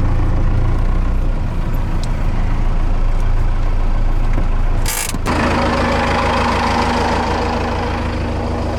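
Cummins 4BT four-cylinder diesel in a Ford F-150 pickup, running at a slow crawl. About five seconds in there is a brief sharp noise and break, after which the engine sound changes character.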